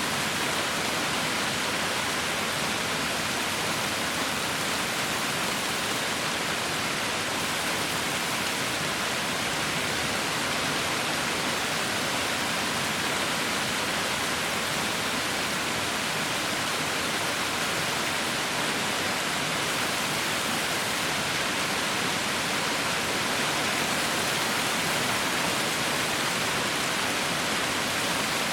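Heavy rain falling: a steady, even hiss with no single drops or thunder standing out.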